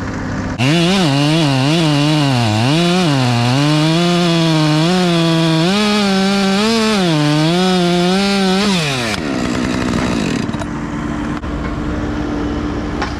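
Chainsaw running at full throttle, starting suddenly about half a second in, its pitch dipping and recovering repeatedly as it cuts into wood, then throttle released with the pitch falling away about three-quarters of the way through. A steady engine idle hums underneath.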